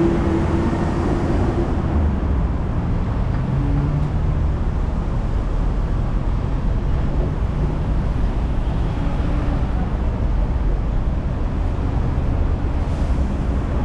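Hong Kong tram running, a steady low rumble of wheels on rail and motor, with a steady tone that stops about two seconds in.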